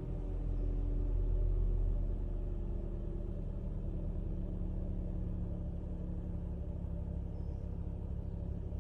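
Toyota 1NZ-FE 1.5-litre four-cylinder engine of a Corolla Fielder idling steadily while warming up after a cold start, a little louder for the first two seconds.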